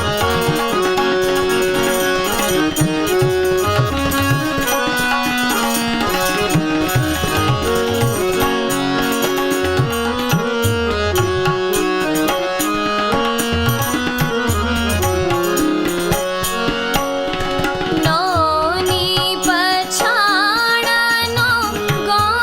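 Indian folk song accompaniment: tabla playing with a sustained melody instrument. A woman's voice comes in singing about 18 seconds in, with a bending, ornamented line over the tabla.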